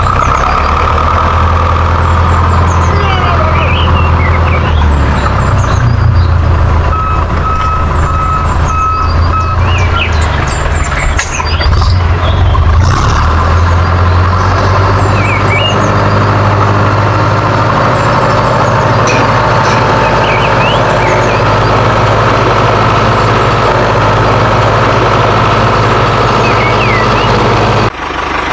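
A tractor engine running steadily, with a short run of evenly spaced beeps about seven seconds in, like a reversing alarm.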